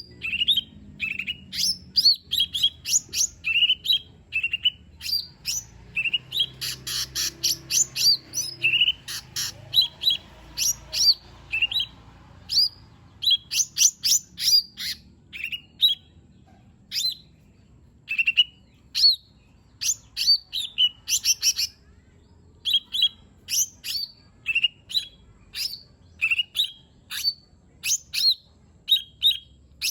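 Lesser green leafbird (cucak ijo mini) singing a fast, varied string of short, sharp whistled notes and chips, several a second, with a stretch of rapid rattling notes about seven seconds in.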